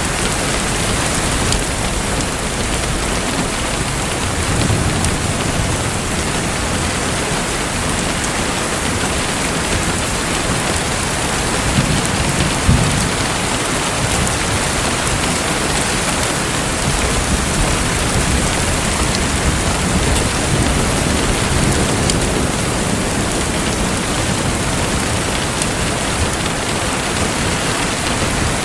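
Steady rain-like rushing of water, with a soft low rumble swelling up a few times.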